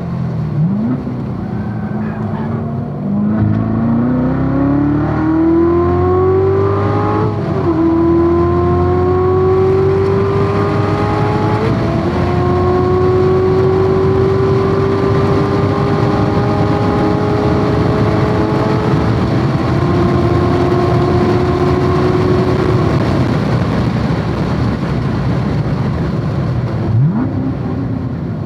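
C7 Corvette Z06's supercharged 6.2-litre V8 at full throttle on track. Revs climb with quick upshifts about seven and twelve seconds in, then a long pull in a high gear before lifting off near the end. There are short throttle blips near the start and shortly before the end.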